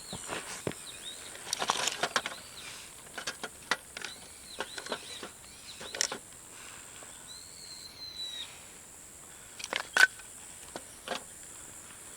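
Birds calling in short repeated arching calls, with one longer call near the middle, over scattered clicks and knocks; the loudest knock, with a brief ring, comes about ten seconds in.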